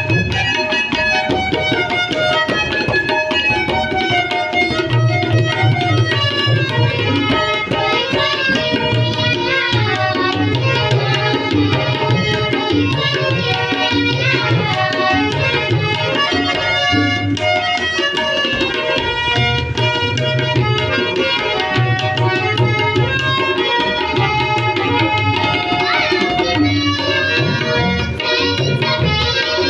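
Tabla playing a steady rhythm, its deep bass drum strokes repeating under sustained melodic tones, in ghazal accompaniment.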